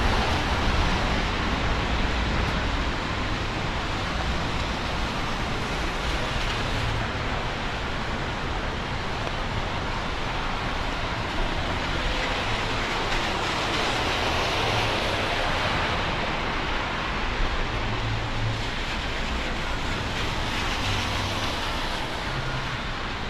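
Steady rain and city traffic on wet streets, with the hiss of tyres on wet road swelling now and then as vehicles pass.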